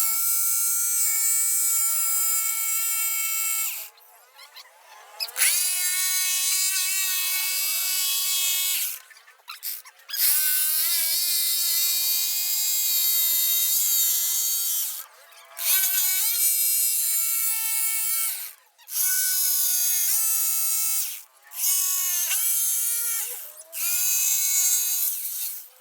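Small electric power tool motor whining in about seven runs of a few seconds each, with short pauses between, the pitch sliding as it spins up in several runs.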